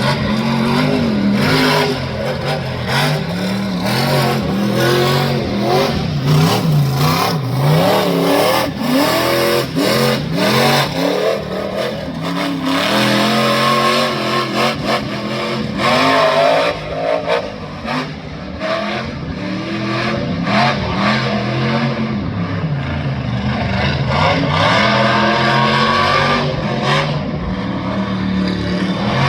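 Monster truck engine revving hard, its pitch climbing and falling again and again as the throttle is worked. Many short sharp cracks are mixed in, most of them in the first half.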